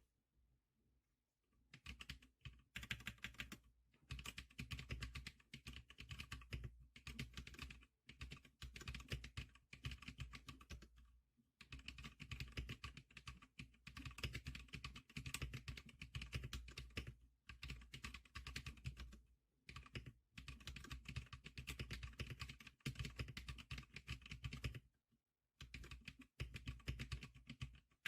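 Fast, continuous typing on a Zclicker SPK100 keyboard: rapid runs of key clicks. There is a silent gap of about two seconds at the start and short breaks about eleven and twenty-five seconds in.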